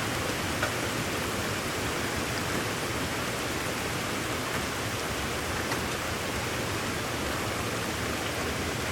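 Steady rainstorm: an even, unbroken hiss of rain with a few faint drop ticks.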